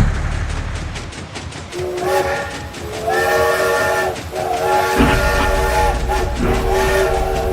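A multi-note horn, like a train horn, sounds three long blasts, over a steady run of rhythmic clicking. A low rumble joins about halfway through.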